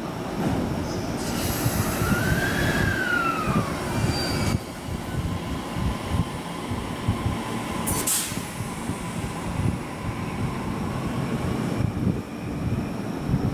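185-series electric train pulling into a station platform: heavy wheel-on-rail rumble, with a high squeal that rises and falls a couple of seconds in and a brief hiss about eight seconds in.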